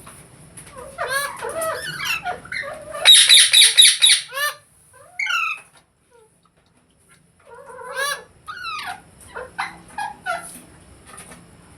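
Ringneck parrot calling: a series of chirps and squawks, with a loud run of rapid harsh screeches about three seconds in, a short pause, then more chirps.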